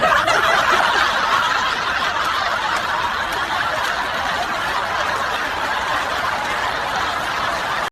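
Dense, steady laughter from several people, cutting off abruptly.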